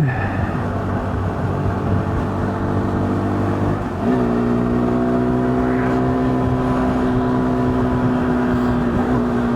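KTM 390 Duke's single-cylinder engine running at road speed over a steady rush of wind noise. About four seconds in the revs step up and then hold steady.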